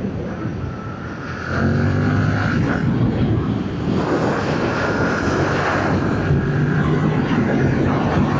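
Yamaha MT-07's parallel-twin engine through its stock exhaust, pulling under load. The engine gets louder about a second and a half in as the bike accelerates. Wind rushes over the microphone throughout.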